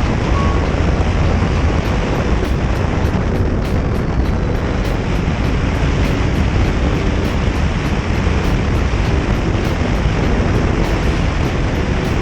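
Motorcycle riding along a road at steady speed: constant engine rumble mixed with rushing wind noise on the microphone.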